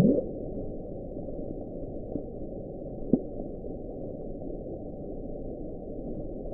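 NOAA underwater hydrophone recording of the 1997 'Bloop': a steady low rumbling hiss with a short rising sweep at the start and two brief knocks a couple of seconds in. NOAA attributes the sound to a large iceberg cracking.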